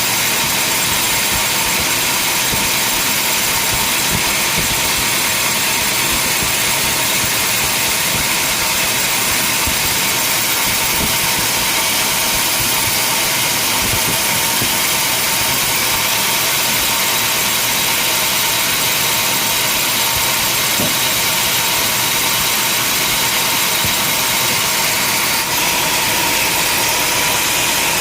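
Sawmill machinery running steadily: a constant loud mechanical noise with a thin steady whine, unchanged throughout.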